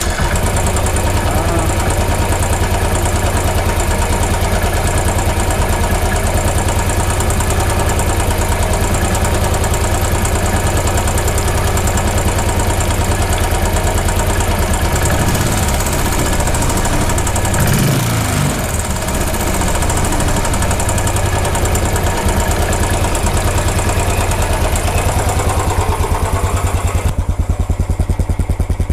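Royal Enfield Bullet 500 EFI's air-cooled single-cylinder pushrod engine idling steadily just after a start, heard close to the cylinder.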